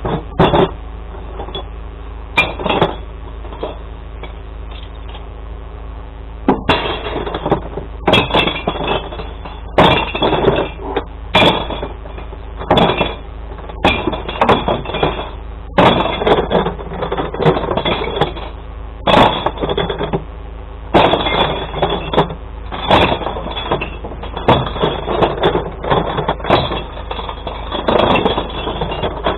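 Glass bottles and jars thrown one after another into a glass-recycling truck's compartments, smashing and clinking about once a second, over the steady hum of the idling truck. The first few seconds hold only the hum and a couple of clinks; the breaking starts about six seconds in.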